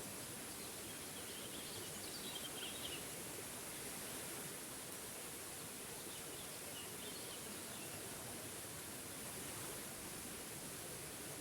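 Steady rushing of a small forest waterfall, with faint bird chirps twice, about two seconds in and again about seven seconds in.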